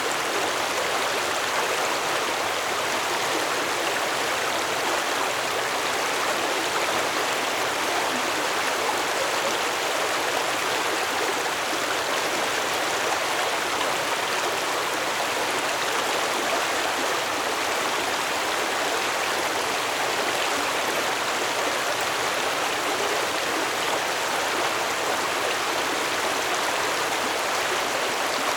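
Stream water flowing steadily over rocks, an even rushing and babbling that does not change.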